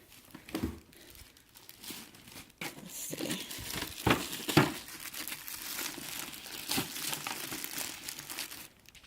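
Packaging being handled: crinkling and rustling with a few knocks, the crinkling growing busier from about three seconds in and stopping just before the end.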